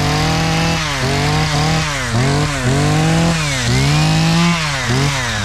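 Two-stroke chainsaw running and being revved over and over, the engine pitch climbing, holding and dropping back about six or seven times.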